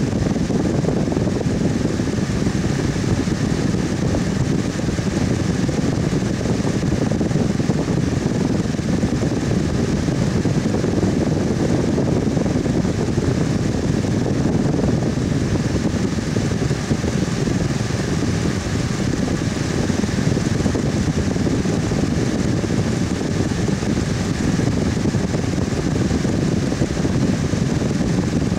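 Electric fan running steadily: an even whooshing hum, mostly low in pitch, with no change in speed.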